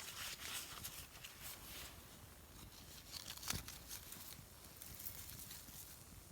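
Faint scattered crackles and rustles from the damp twigs and newspaper of a small campfire that is barely catching, with one sharper snap about three and a half seconds in.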